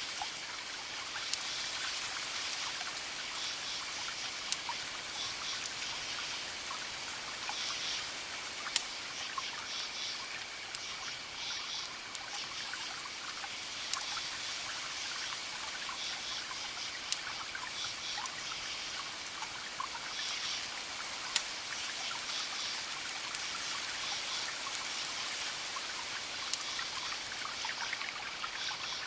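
Campfire crackling, with a constant ticking and several louder sharp pops, over crickets chirping: a steady high trill and repeated short bursts of higher chirps.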